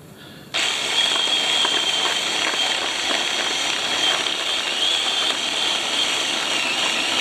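Ryobi 18-volt battery chainsaw starting up about half a second in and running steadily under load, a high electric-motor whine over the rasp of the chain in wood. The battery is nearly flat.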